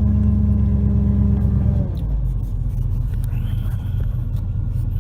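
Chevy 454 big-block V8 idling while the power steering pump groans under load with the wheel turned to full lock. The groan stops about two seconds in and the engine idles on. The noise is air being worked out of the newly filled power steering system, and it is getting quieter.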